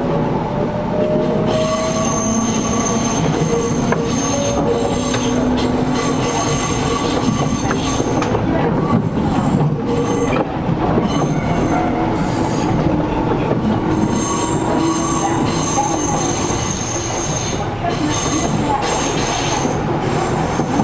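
Interior running sound of a Gakunan Railway 7000-series electric car pulling away: the motor whine rises in pitch over the first few seconds over steady wheel-and-rail noise. A high-pitched squeal from the wheels comes and goes several times, and the air conditioning runs underneath.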